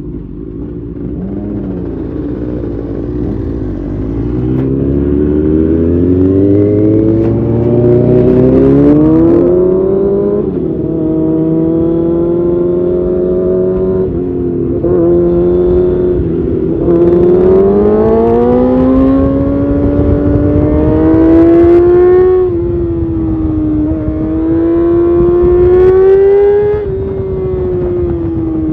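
Kawasaki Ninja ZX6R's inline-four engine through an Arrow titanium race exhaust, accelerating hard with its pitch climbing and dropping back several times as the rider shifts and rolls on and off the throttle, over a low rush of wind.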